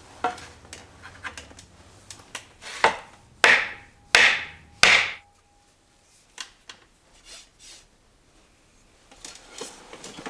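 Hand-tool work on a homemade fire-blowing tube: scattered light knocks and taps, then four louder scraping strokes about 0.7 s apart, with a brief ringing tone after them, then a few quieter taps.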